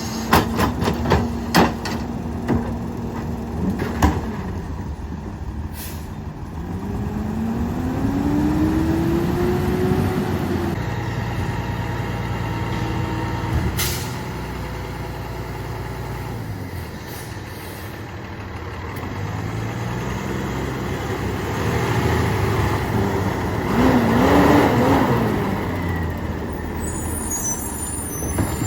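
Peterbilt 348 rear-loader garbage truck with a Loadmaster packer body: a run of knocks in the first few seconds, then the diesel engine revs up and back down twice as the packer cycles. The engine is loud and runs rough. A sharp click sounds in the middle, and a brief high squeal comes near the end.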